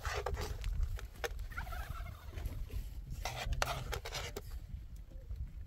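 Short animal calls, a few separate bursts over several seconds, over a low steady rumble.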